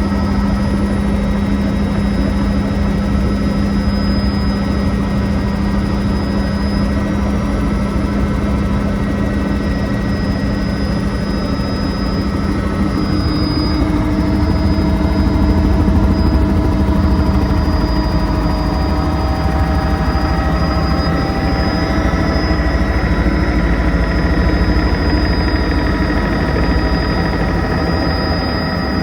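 Helicopter turbine and rotor running steadily in flight: a continuous loud drone that swells a little about halfway through.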